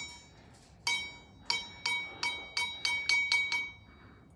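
A small metal bell ringing, struck about nine times in quick, uneven succession, every ring at the same pitch.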